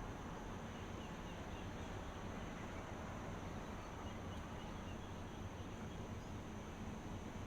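Steady white-noise hiss with a low hum and a constant thin high-pitched drone, and a few faint short chirps.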